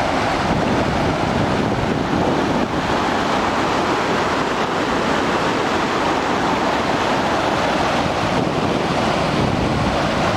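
Steady rushing of a waterfall in a mountain river: a loud, even wash of water noise with no breaks.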